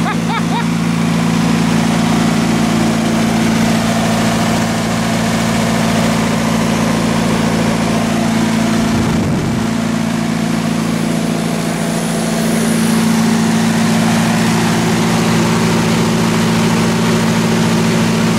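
MEP-004 military diesel generator running steadily under load, with a steady engine hum and a short low rumble about nine seconds in.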